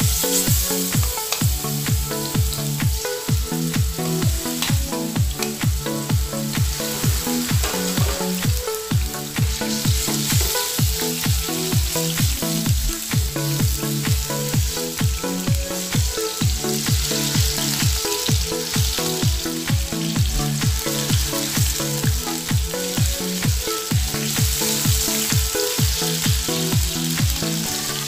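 Chicken pieces sizzling as they fry in oil in a nonstick pan, turned now and then with a spatula. Background music with a steady beat plays throughout.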